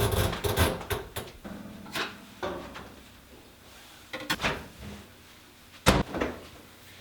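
A door being handled: several clunks and knocks, a clatter in the first second, and one sharp bang shortly before the end.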